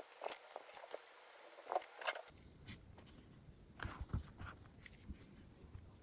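Faint, scattered light clicks and taps from handling a small die-cast toy car and its parts. About two seconds in the background changes abruptly to a low rumble, with a few louder knocks.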